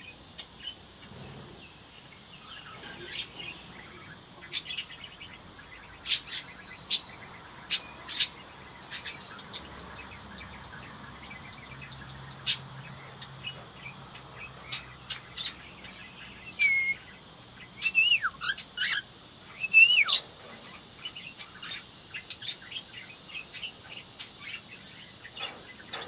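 Cockatiels chirping, with a cluster of louder whistled calls that swoop up and down near the middle. A steady high insect drone runs underneath.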